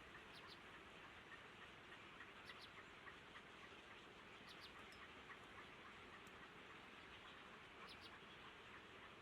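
Faint, short high chirps of small birds every second or two over a steady hiss.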